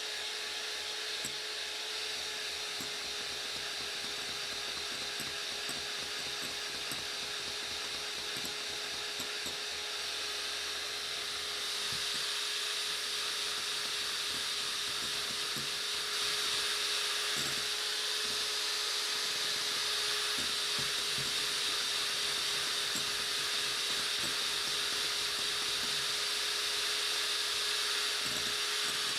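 Electric hand mixer running at high speed, its beaters whipping eggs and sugar in a bowl into foam. It is a steady motor whine that grows a little louder about 12 seconds in and again about 16 seconds in.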